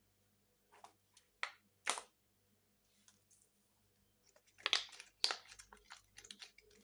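Silicone pop-it fidget toy bubbles being pressed: a few separate pops in the first two seconds, then a quicker run of louder pops with some crinkly handling noise from about four and a half seconds in.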